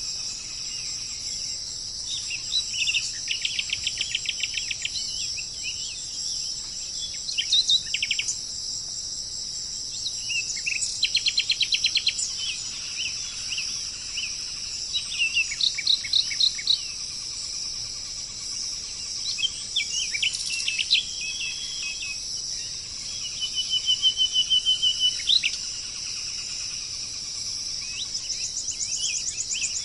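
Birds singing in short trilled phrases of rapidly repeated notes every few seconds, over a steady high drone of insects such as crickets.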